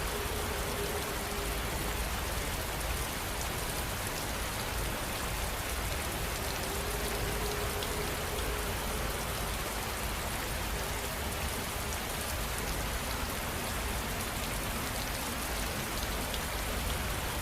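Steady rain noise: an even, unbroken hiss over a constant low rumble, with a faint hum that fades in and out twice.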